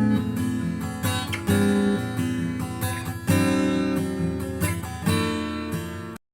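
Outro music: acoustic guitar strumming chords, a new chord struck every one and a half to two seconds, cutting off suddenly near the end.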